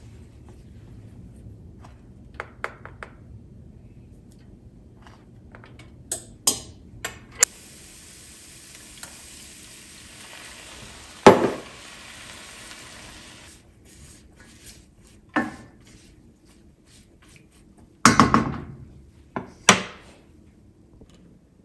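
Kitchen cooking sounds: scattered clicks and knocks of utensils against cookware, with a steady hiss for about six seconds in the middle and a few louder knocks, the loudest near the end.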